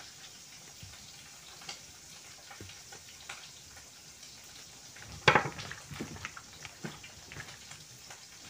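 Pieces of tongkol fish frying in oil with a faint crackle and scattered small pops. About five seconds in there is a single sharp clack, followed by a few lighter knocks.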